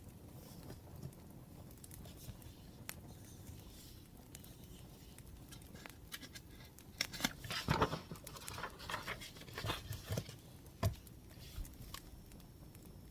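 Faint crackling of a wood fire with scattered small pops. About seven seconds in, a few seconds of paper rustling and crinkling, like a page being handled or turned, ending in a light knock.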